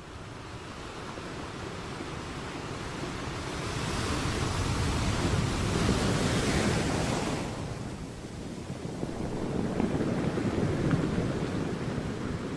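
Sea surf: a wave builds, breaks and washes in, at its loudest about halfway through, then ebbs. A second, smaller surge comes near the end.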